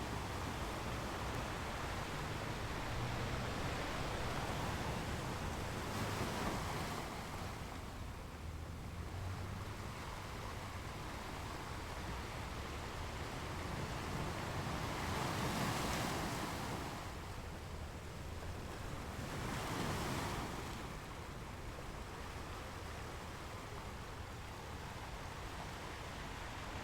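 Ocean surf: a steady wash of waves, with three louder surges as waves break, about six, fifteen and twenty seconds in.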